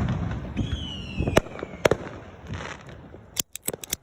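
Fireworks going off: a falling whistle, two sharp bangs, then a quick string of firecracker cracks near the end, over a steady rumble of distant fireworks.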